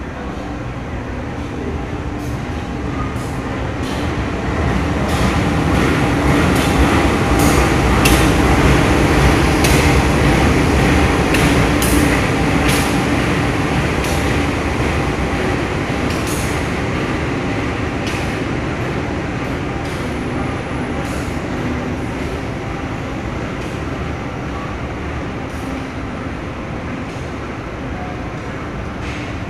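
Local passenger train pulling into the station past the platform: a steady engine drone with wheel-and-rail noise swells over the first several seconds, then eases off as the train slows. Scattered sharp clicks from the wheels on the rails come during the loudest stretch.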